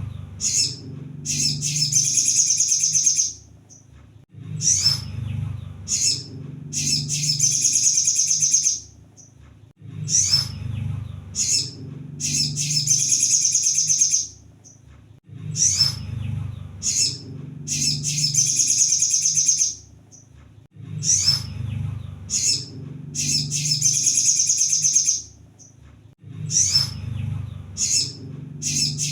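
Crimson sunbird song on a repeating loop: a few sharp high chips followed by a fast, dense high trill of about two seconds, the phrase coming round about every five and a half seconds.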